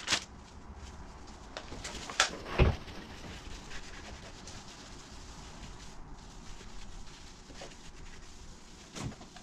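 Faint handling and wiping sounds from a cupboard being cleaned, with two sharp knocks a little over two seconds in and a softer one near the end.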